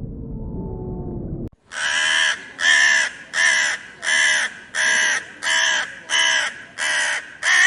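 A low rumble with faint drawn-out tones cuts off abruptly about a second and a half in. It is followed by a string of loud, harsh animal calls, about one and a half a second, each lasting about half a second.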